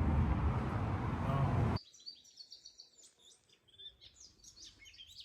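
A loud steady rushing noise, heaviest in the low end, stops abruptly a little under two seconds in. After that, small birds chirp and twitter faintly and busily: springtime birdsong.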